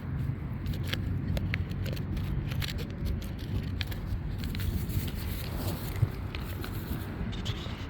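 Wind buffeting the microphone with a steady low rumble, and scattered small clicks and scrapes of hand digging in soil.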